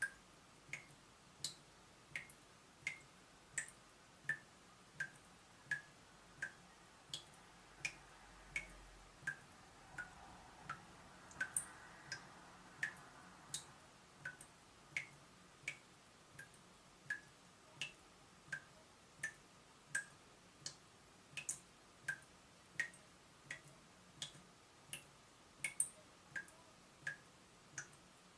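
Water dripping from a leaking tap: a steady run of single drops, about three every two seconds, each a short plink whose pitch varies from drop to drop.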